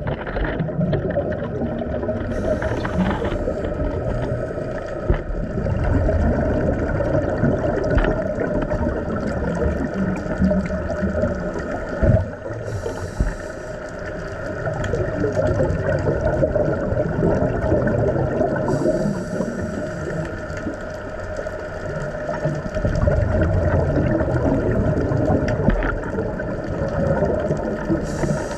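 Boat engine running at a steady drone with water noise, and a short hiss four times.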